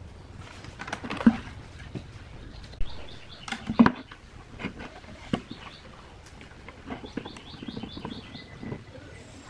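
Scattered knocks and clicks of objects being handled, the loudest about a second in and again near four seconds. Twice, a bird chirps a quick run of short high notes in the background.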